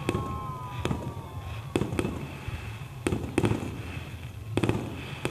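Fireworks display: aerial shells bursting in about six sharp bangs at uneven intervals over a low rumble, with faint whistles in the first second.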